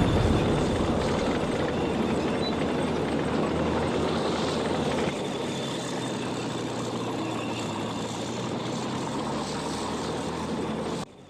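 Steady engine drone over a rumbling noise, added as a war sound effect. It opens on the fading tail of an explosion, drops a little about five seconds in, and cuts out abruptly just before the end.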